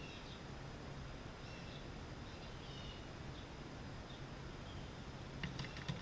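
Faint, scattered bird chirps over a steady low outdoor hum; near the end, a quick cluster of clicks and flutter as a bird flaps its wings at a mesh tube seed feeder.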